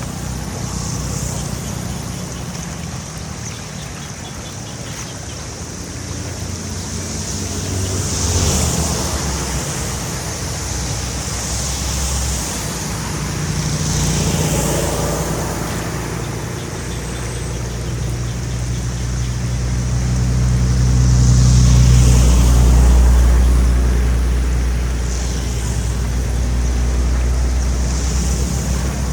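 A large engine running steadily and surging louder around three-quarters of the way through, with a rushing hiss that swells and fades several times.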